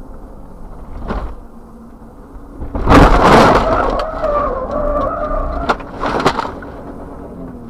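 Car crash: steady road rumble, then a loud crash about three seconds in, followed by a shrill wavering tone for about three seconds and a few more sharp knocks.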